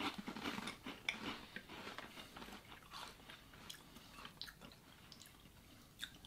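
Faint crunching and chewing of crisp, bite-sized white-chocolate-filled churros: a run of small, quick crunches that thins out over the last few seconds.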